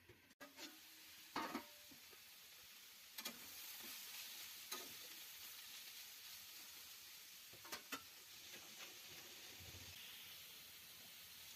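Potatoes and fenugreek leaves sizzling faintly in a metal kadai, with a spatula scraping and tapping against the pan a few times as they are stirred.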